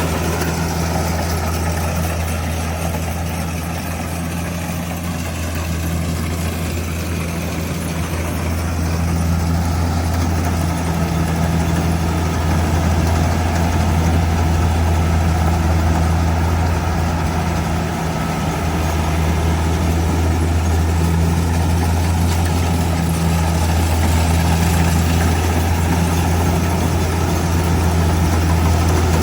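Kubota DC70G Plus combine harvester's diesel engine running steadily with a deep, continuous hum, easing slightly in level a few seconds in before picking up again.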